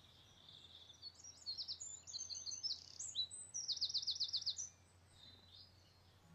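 Songbirds chirping, with quick high chirps and short whistles and a rapid trill of about eight notes a little over halfway through.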